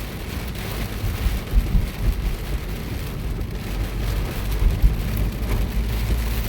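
Steady hiss of rain and wet road noise while travelling in a vehicle, over a strong low rumble with irregular low thumps.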